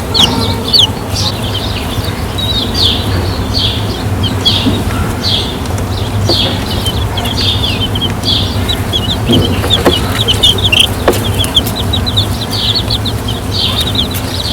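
A crowd of chicks peeping continuously: many short, high, slightly falling peeps, several a second and overlapping, over a steady low hum.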